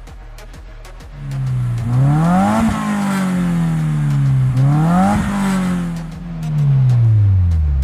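Subaru WRX's 2.0-litre FA20 flat-four revved twice through a Magnaflow 3-inch competition-series cat-back exhaust. Each time the pitch climbs quickly and then falls away more slowly, with a deep exhaust tone.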